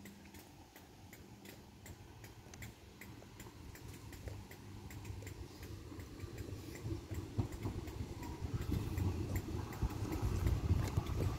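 A train approaching on the line: a low rumble grows steadily louder through the second half. Faint, fairly regular ticking clicks run throughout.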